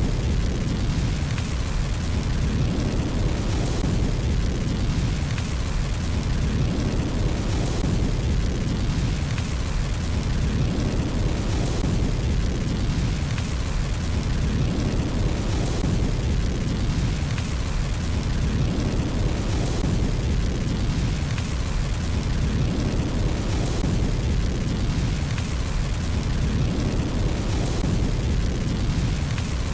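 Fireplace fire burning with a steady deep rumble and a hiss over it that swells about every four seconds, with a few faint pops.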